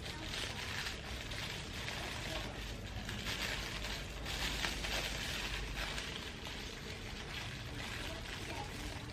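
Irregular rustling and crinkling of plant packaging being handled.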